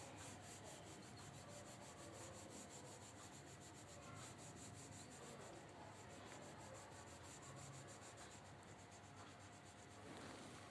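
Faint rubbing of a colouring stick on paper as an area of a drawing is filled in with light, continuous strokes.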